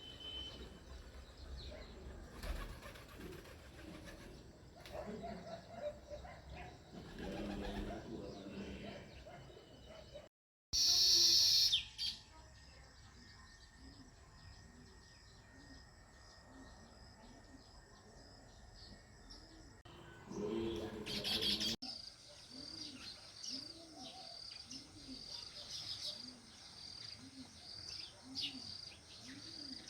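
House sparrows chirping. About eleven seconds in, a short loud rush sounds, and in the last part a single note repeats steadily, a little more than once a second.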